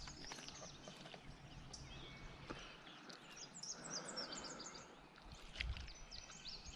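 Faint river outdoor ambience with songbirds chirping in short high-pitched phrases, strongest a few seconds in and near the end, and a few light clicks.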